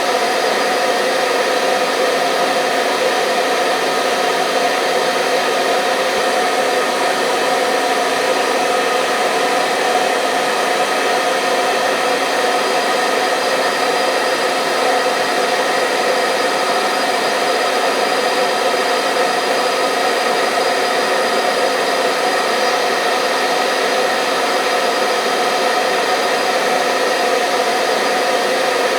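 Hair dryer blowing steadily: a constant loud whoosh of air with a motor hum under it, unchanging throughout.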